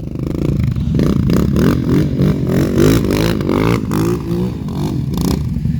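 Quad bike engines revving hard and unevenly, the pitch rising and falling again and again, as one ATV pushes another out of deep mud. The stuck quad is under heavy load with its wheels spinning.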